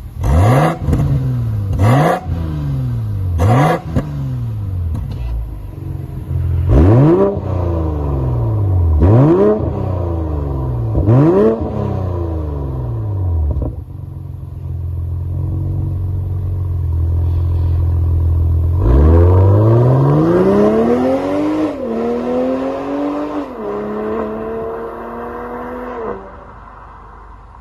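BMW 540i's B58 turbocharged 3.0-litre inline-six through an aftermarket valved exhaust. It is blipped several times, revving sharply and falling back to idle. It idles steadily, then pulls away hard, its pitch climbing and dropping back twice as it shifts up, before it fades near the end.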